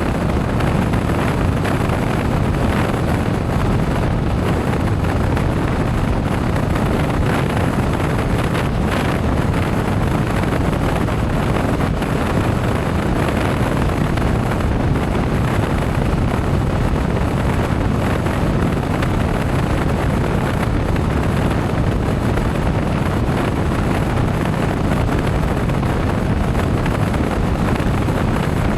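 Steady wind noise buffeting the microphone on a moving motorcycle, an unbroken rush with the motorcycle's engine and road noise underneath.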